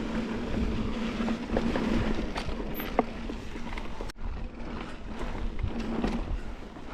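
Mountain bike ridden over slickrock: wind noise and tyre rumble with scattered knocks and rattles from the bike. A steady buzz runs through the first couple of seconds and returns briefly near the end.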